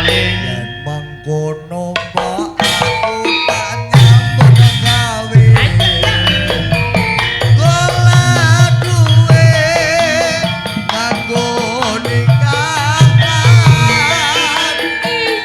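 Javanese gamelan ensemble playing with kendang hand-drum strokes and struck metallophone notes, joined from about halfway through by a wavering melodic line.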